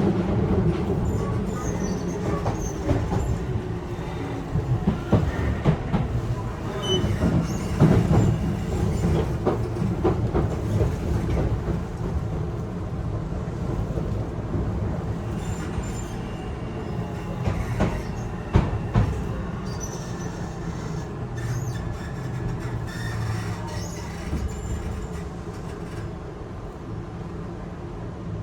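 On-board running sound of a Yokohama Minatomirai Railway Y000-series electric train: a steady rumble of wheels on rail, broken by the sharp clacks of rail joints and a faint high wheel squeal at times. The sound grows gradually quieter towards the end.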